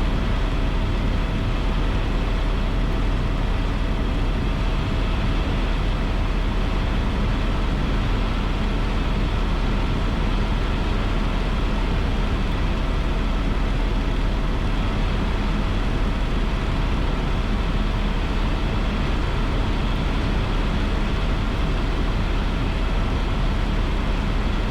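Airbus AS355 Twin Squirrel helicopter in steady forward flight, its turbines and rotors making a constant loud drone with a deep rumble and a few faint steady whining tones.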